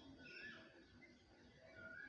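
Faint bird chirps over near-silent background hiss: two short whistled notes, one just after the start and one near the end.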